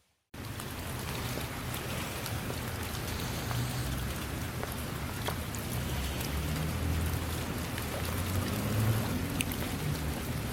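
Steady rain falling, with scattered single drops ticking and a low rumble underneath. It cuts in abruptly after a moment of silence at the start.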